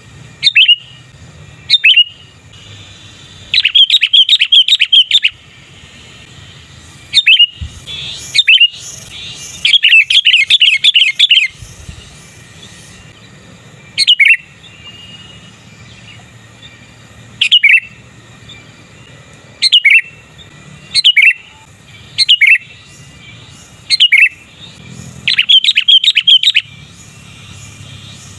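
Sooty-headed bulbul (kutilang) calling: sharp single chirps every second or few, broken by three quick runs of repeated notes, about four to five a second, lasting under two seconds each.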